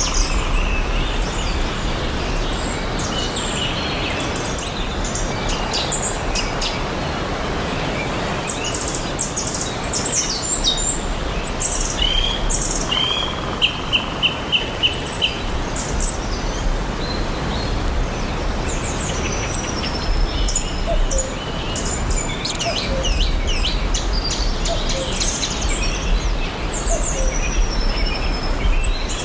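Several wild birds chirping and singing, including a quick run of about six even notes around the middle, over a steady outdoor hiss.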